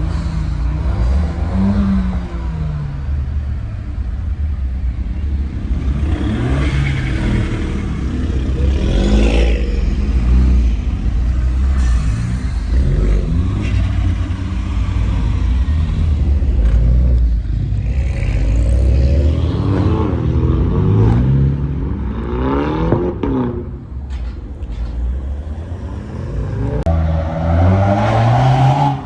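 Car engines revving and driving past, the engine pitch climbing and dropping again several times, with a strong rev near the end.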